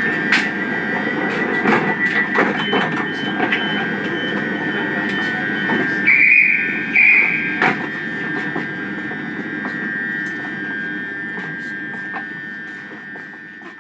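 Train running on rails: a steady rumble with scattered wheel clicks and a steady high squeal. Two short toots come about six and seven seconds in, and the sound fades out near the end.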